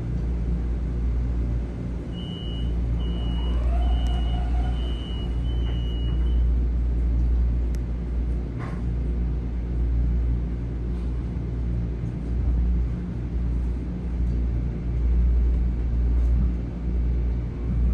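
Interior of a Metro-North M7A electric train: a steady low rumble, with a row of about five short, evenly spaced high beeps about two to six seconds in.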